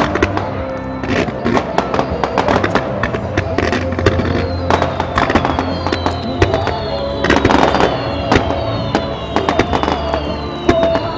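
Fireworks bursting and crackling over music from a show's sound system. The aerial shells and ground fountains go off as a rapid string of reports, and the bursts come thickest about seven to eight seconds in.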